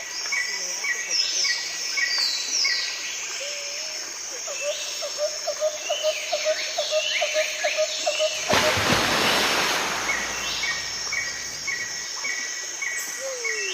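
Several birds singing and calling: strings of short repeated chirps and falling whistled notes, with a rapid pulsed trill for a few seconds. About eight seconds in, a burst of rushing noise lasts around two seconds.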